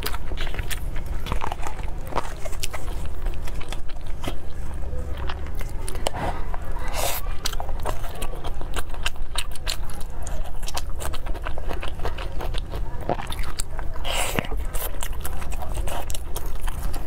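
Close-miked eating sounds: chewing a mouthful of soft rice, with many wet mouth clicks and smacks, and a couple of louder smacking bursts about a third of the way in and near the end.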